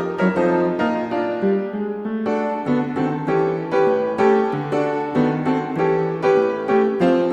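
Background piano music, a gentle melody of struck notes at an even pace.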